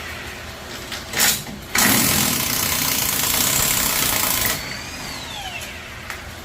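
Impact wrench loosening a wheel's lug nut: a brief blip, then a loud steady run of about three seconds, and the tool winding down with a falling whine.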